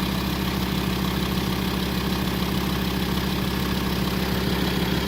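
Volkswagen Touareg 2.5 TDI five-cylinder diesel idling steadily with an even, fast diesel clatter; the freshly reassembled engine is running well.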